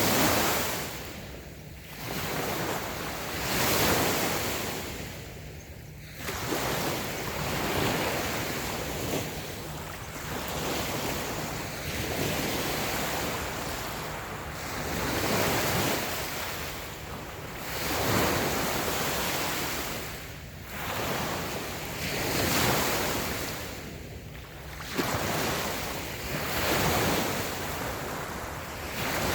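Light waves washing onto a sandy beach, each swell rising and falling every few seconds, with some wind on the microphone.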